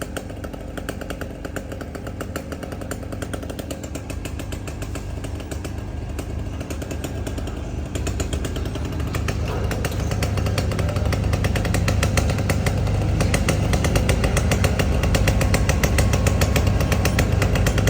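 An engine running with a rapid, steady pulse, growing gradually louder over the second half.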